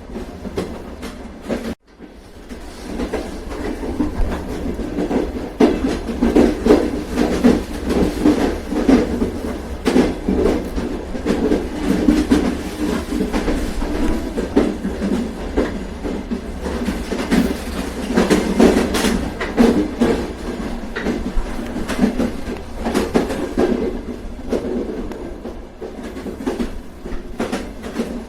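Train running on the rails: a steady rumble with wheels clattering over the track. It cuts out abruptly for a moment near two seconds in, then swells back up and runs on.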